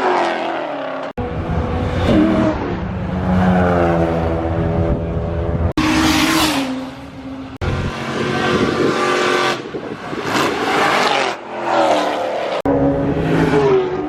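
Car engine under hard acceleration, its pitch climbing and dropping as it revs through the gears. Heard in several short clips joined by abrupt cuts.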